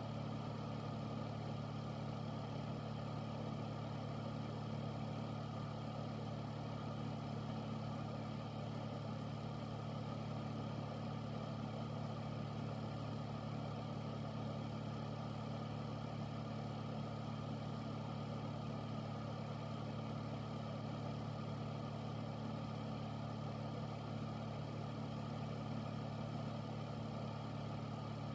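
Air filter fan running steadily: a constant low hum under an even rush of air, with no change in speed.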